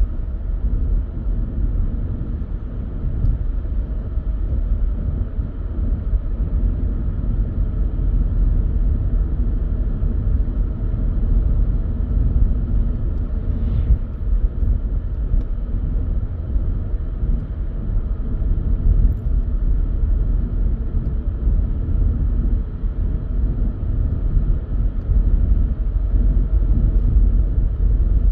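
A car driving along a road: steady, low road and engine rumble with no change in speed.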